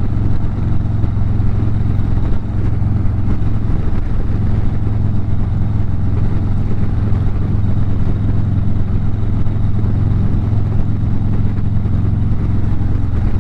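Harley-Davidson motorcycle's V-twin engine running at a steady cruise: a constant low drone under wind and road noise.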